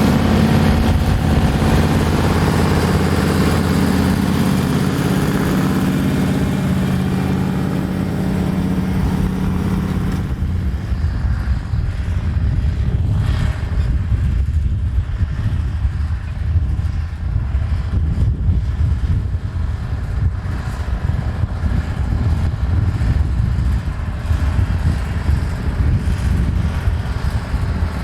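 ACO 250 articulated tractor's twin-turbo V8 running on straight pipes under load while pulling a disc harrow. For about the first ten seconds it has a steady, strongly pitched exhaust note. After that the sound turns lower and rougher and wavers in loudness.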